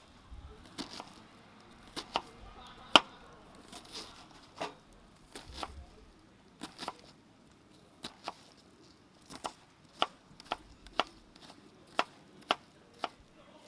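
Knife chopping food on a cutting board: sharp, irregular knocks, some in quick pairs.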